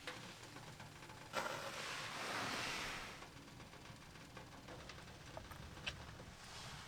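Faint rustling that swells for about two seconds near the start, with a few light ticks.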